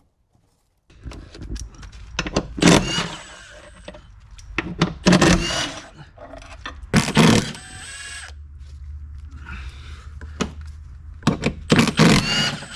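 Impact wrench running in four short bursts of about half a second to a second each, undoing the strut top-mount nuts. A steady low hum runs underneath from about a second in.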